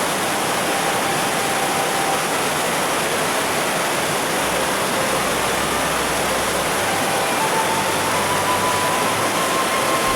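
Mountain waterfall: a steady rush of falling water.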